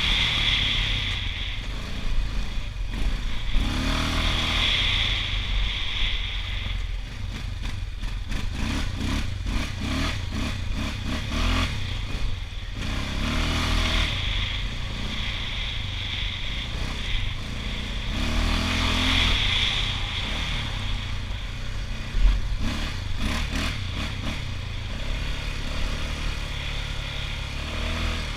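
Honda TRX680 ATV's single-cylinder engine running and revving up three times, with runs of clattering knocks.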